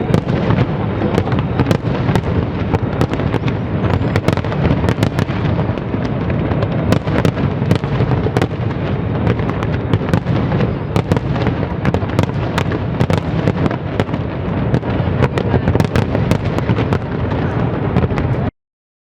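Fireworks display: a dense, continuous rumble of shell bursts with many sharp cracks and bangs overlapping. It cuts off suddenly near the end.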